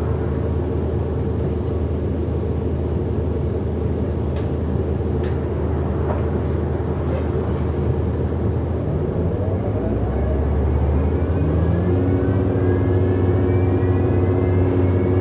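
Inside a 2008 Orion NG hybrid-electric city bus: a steady low drivetrain drone. From about nine seconds in, several rising whines climb in pitch as the bus accelerates.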